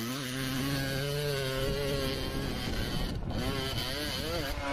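A vehicle engine running with a buzzing drone, its pitch wavering up and down.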